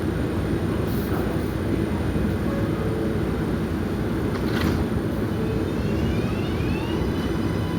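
R188 subway train running with a steady rumble. About six seconds in, a rising electric whine from its propulsion sets in, as heard when the train is accelerating.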